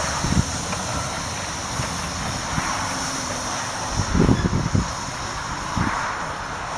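Steam locomotive Twizell running with its train: a steady rushing noise with a few low thuds, the strongest about four seconds in.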